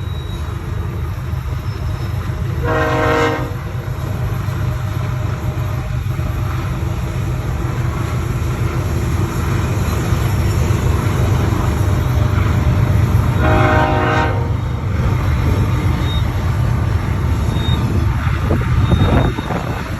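Freight train passing with a steady low rumble of locomotives and cars, and two short train horn blasts, one a few seconds in and one about two-thirds of the way through. The rumble drops off just before the end.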